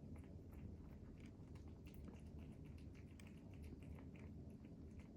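Cat eating wet cat food fast: faint, quick, irregular wet chewing and smacking clicks, several a second.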